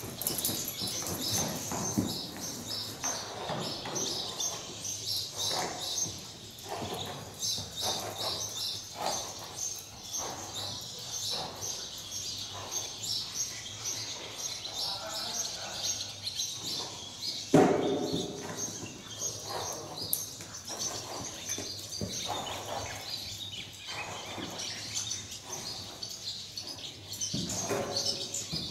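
Small birds chirping continuously in many short, high chirps, with a brief louder burst about two-thirds of the way through.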